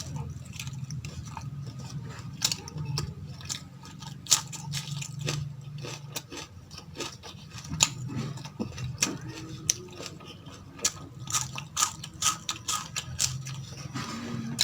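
Close-miked eating sounds of mutton and potato tahari rice being chewed: irregular wet mouth clicks and smacks, several a second, over a steady low hum.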